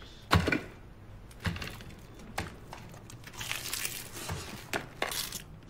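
Crispy fried chicken being bitten into and chewed: irregular short crunches and crackles.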